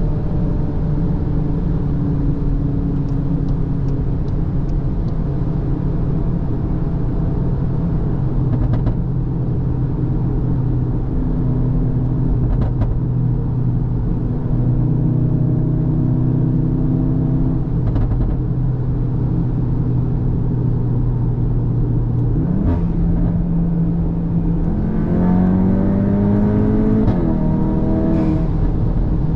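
Cupra Formentor VZ's turbocharged 2.0 TSI four-cylinder engine and exhaust pulling steadily at cruising revs. Near the end the revs climb hard under acceleration, drop at a quick upshift, then climb again.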